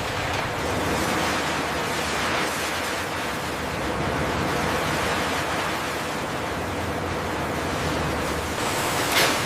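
Steady rushing noise of factory background, with one brief sharp burst about nine seconds in.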